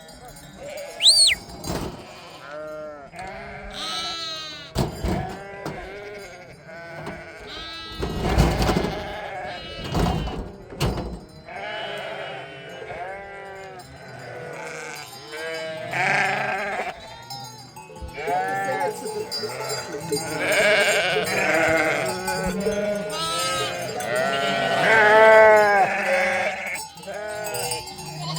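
A flock of sheep bleating, many overlapping calls one after another. A few low rumbles come about a third of the way in.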